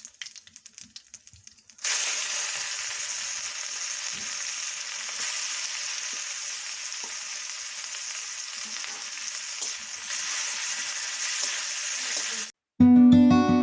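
Food frying in hot oil, a steady sizzle that starts about two seconds in after a few faint drips and ticks, and cuts off abruptly near the end.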